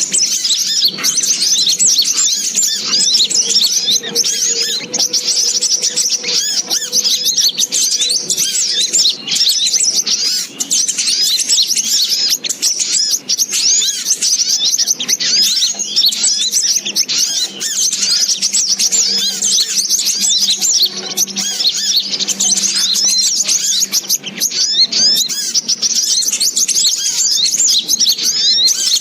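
Dense, unbroken high-pitched chirping of many overlapping sogok ontong calls, a bird-lure recording played to attract the species.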